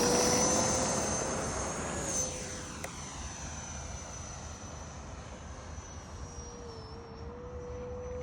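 Twin electric ducted fans of a Freewing Eurofighter Typhoon RC jet whining on takeoff. The sound fades over the first few seconds as the jet climbs away, then settles into a steady distant whine.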